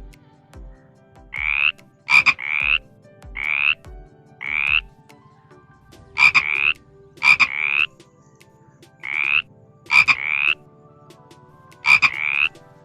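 Frog croaking over and over: a dozen or so short calls, often in pairs, each one a quick pulsed croak rising in pitch, some with a sharp clicky onset.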